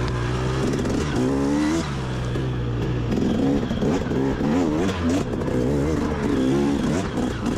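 Dirt bike engine revving up and down again and again, the throttle opened and shut in quick bursts while climbing a steep hill.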